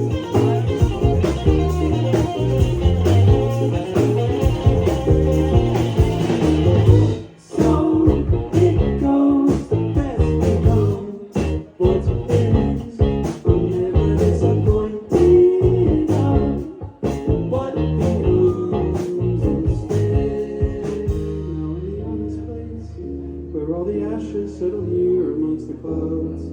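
Live band playing a blues-tinged rock song with guitar and singing. The band stops short for a moment about a third of the way in and again a couple of times later, and thins out to a held low bass note near the end.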